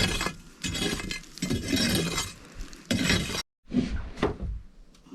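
A narrow metal scoop scraping and clinking inside a stove as ash and soot are raked out. It stops abruptly about three and a half seconds in, and a few more scattered knocks follow.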